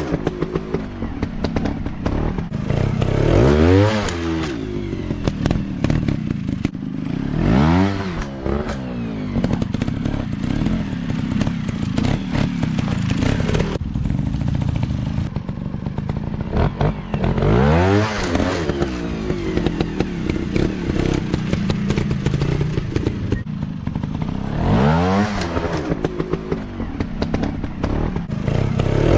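Dirt bike engines revving hard in repeated bursts, each rev rising in pitch, several times over, with clatter and knocks throughout.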